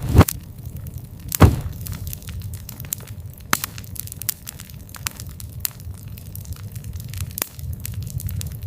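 Wood campfire crackling: irregular sharp pops and snaps over a low steady rumble of burning, with two louder pops near the start.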